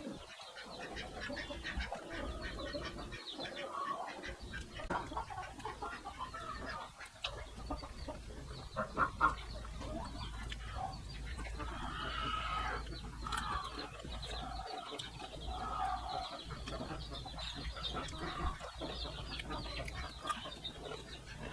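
Chickens clucking on and off, with scattered small clicks and knocks.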